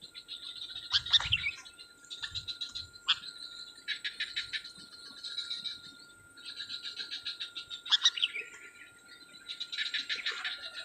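Outdoor bird calls: a few short, sharp notes sliding down in pitch, over repeated stretches of rapid pulsing chirring, each about a second long, and a steady high insect drone.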